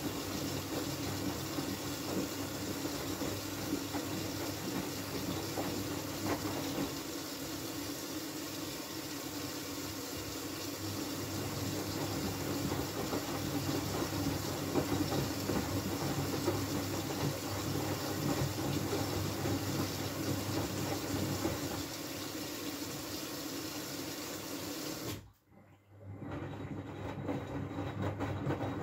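Miele W433 front-loading washing machine in its rinse at high water level: the motor turns the drum and water sloshes inside with a steady hum. It briefly drops out near the end, then carries on.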